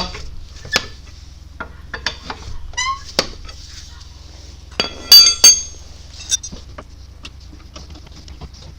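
Metal clinks and clicks of a wheel wrench working on a car's wheel nuts as they are loosened, with two loud ringing metallic clanks about five seconds in.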